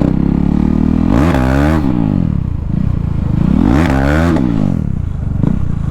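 KTM Duke 390 single-cylinder engine run without its exhaust muffler, idling and revved up twice, about a second in and again near four seconds, the pitch rising and falling back each time.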